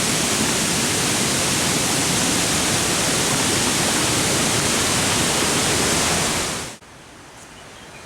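Steady rush of running water that cuts off suddenly near the end, leaving only a faint hiss.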